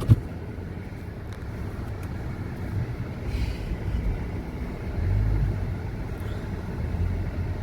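Pontiac Vibe's engine running, a steady low rumble that swells a little about five seconds in.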